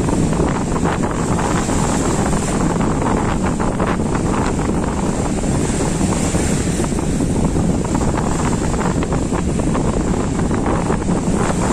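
Wind buffeting the microphone, loud and steady, with sea waves washing underneath.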